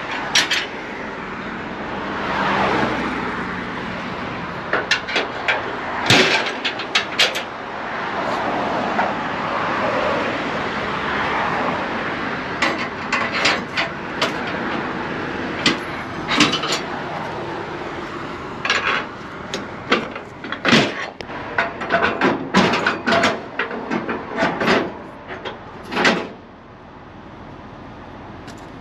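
Metal clicks and clanks of car-hauler strap winches being loosened with a tie-down bar, in scattered bursts, over traffic passing on the street that swells and fades twice.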